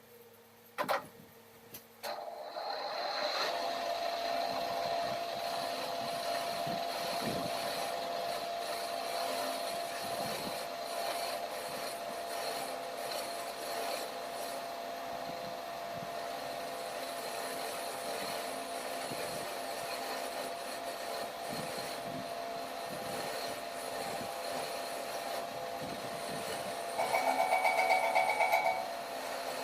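A workshop machine starts about two seconds in, after two sharp clicks, and runs steadily with a constant whine and a rasping, cutting sound. Near the end a louder, pulsing sound with a high tone comes in twice.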